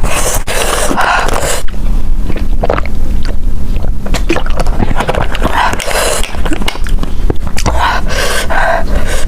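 Close-miked eating sounds: irregular wet chewing and mouth noises with many small clicks and smacks.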